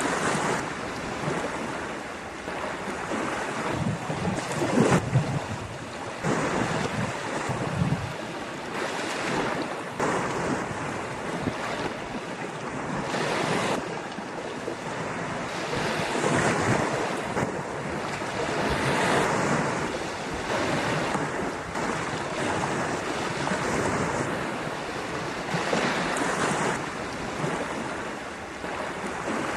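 Ocean surf: waves breaking and washing on a beach, swelling and easing every few seconds, with wind buffeting the microphone.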